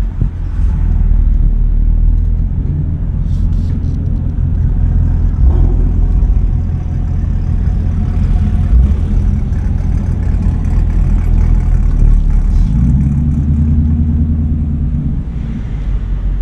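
A car engine running steadily while driving, its note shifting higher about 13 seconds in.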